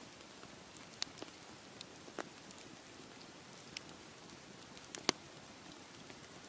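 Wood campfire crackling, with scattered sharp pops about once a second or so, the loudest about five seconds in, over a steady wash of sea waves.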